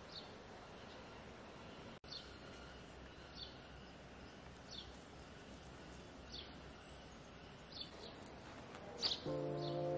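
A bird giving short, high chirps about every second and a half over faint outdoor background noise. Music comes in near the end.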